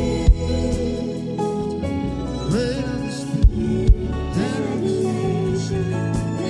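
Gospel worship music: sustained chords under a singer's wordless gliding vocal runs, with a few deep thumps.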